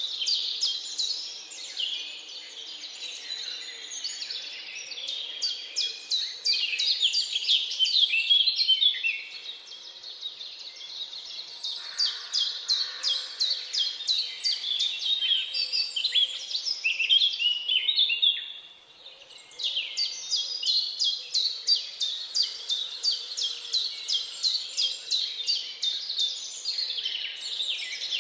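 Several songbirds singing at once in woodland, a dense chorus of fast, repeated high chirps and trills. There is a brief lull a little past the middle.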